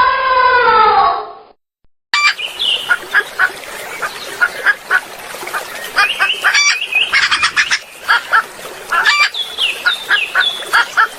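A single drawn-out pitched call that ends about a second and a half in, then after a brief silence a flock of birds calling continuously, many short calls overlapping in quick succession, with some high falling chirps among them.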